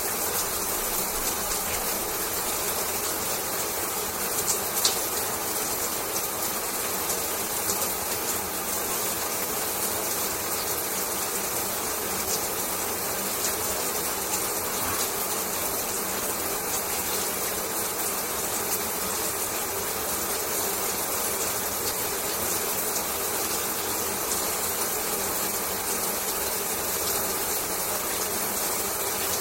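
Shower water spraying steadily, an even hiss without change, with one small click about five seconds in.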